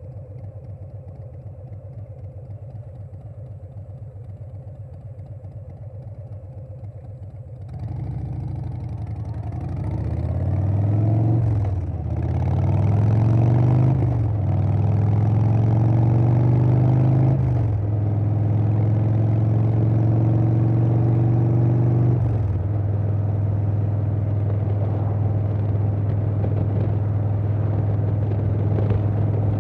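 Harley-Davidson Softail's Milwaukee-Eight V-twin, fitted with a Vance & Hines Big Radius 2-2 exhaust, running low and steady for several seconds. It then pulls away, the engine note climbing and dropping back at each of four gear shifts, and settles into a steady cruise.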